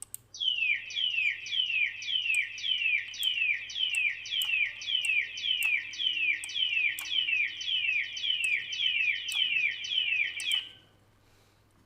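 Bird-call sound effect played back with an echo delay effect: a steady train of quick, falling high chirps, about three a second, that stops shortly before the end.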